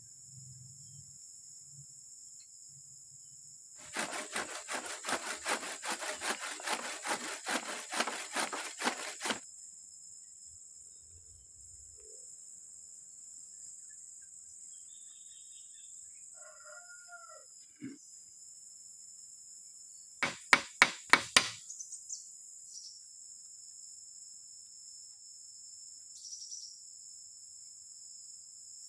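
A hand saw cutting wood in rapid strokes, about five a second, for some five seconds. Later comes a quick run of five sharp, loud knocks. A steady high insect drone runs underneath.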